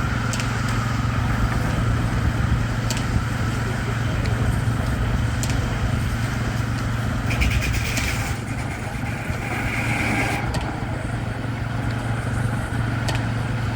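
Baker 23-90 uniflow steam engine running steadily under load, driving a Frick circular sawmill through a large log. A higher-pitched whine comes in twice around the middle.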